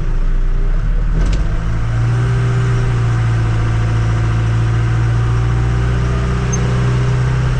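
Tractor-loader-backhoe engine running heard from the cab, revving up about a second and a half in and then held at a steady higher speed as the throttle is pressed to drive the loader hydraulics.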